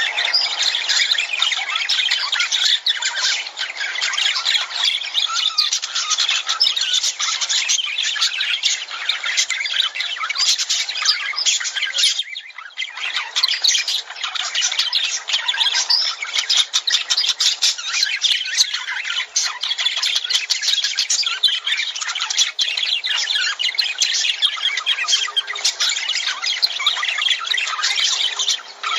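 A flock of lovebirds chattering and squawking without pause, many shrill chirps overlapping, with a brief lull about halfway through.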